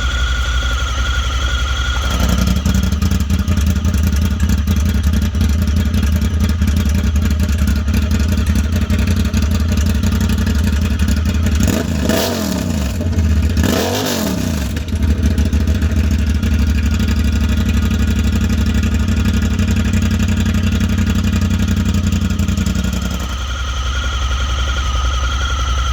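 2019 Honda Talon's parallel-twin engine idling through an exhaust fitted with an electric cutout. About two seconds in, the sound turns suddenly louder and rougher as the cutout opens. In the middle it is revved twice, each rev rising and falling in pitch, and near the end it drops back to the quieter closed sound.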